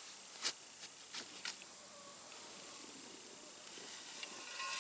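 Soil being dug through in a potato bed: a few short gritty scrapes and clicks in the first second and a half, then faint scattered rustles.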